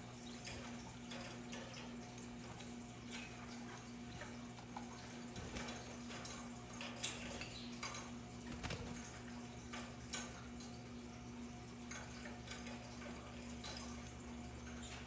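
Budgerigars in a cage making faint, scattered short chirps and small clicks and taps, with two sharper clicks about seven and ten seconds in.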